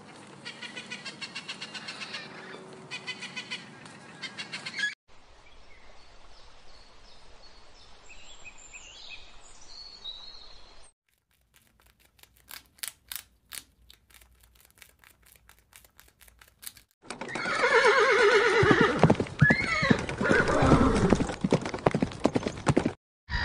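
A string of separate animal sound clips with hard cuts between them. First come rapid repeated parrot calls, then a quieter stretch with a few high chirps. Next are faint sharp clicks while a rat is shown, and last and loudest a horse neighs several times.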